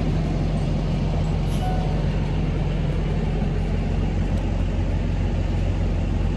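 Semi truck's diesel engine idling steadily with an even low rumble.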